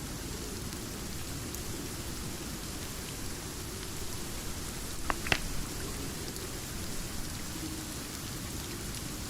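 Steady rain falling, with a low rumble beneath it. Two sharp crackles from a wood fire come just after five seconds in.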